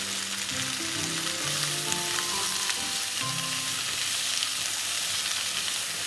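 Carrot pieces stir-frying in hot oil in a pan: a steady sizzle as they are stirred and tossed.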